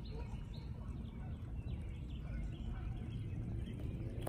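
Small birds chirping, with many short, high, falling chirps over a low steady rumble.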